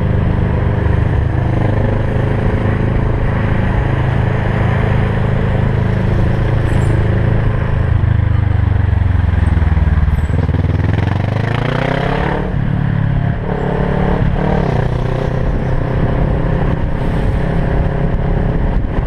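Kawasaki Versys 650's parallel-twin engine running under way over a steady hiss. Its pitch falls about eight seconds in as it slows, then rises again as it is revved back up, twice in quick succession.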